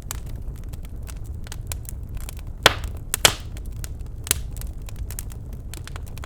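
Birch logs burning in a fireplace, crackling with many small sharp ticks and two loud pops a little past halfway, over a steady low rumble.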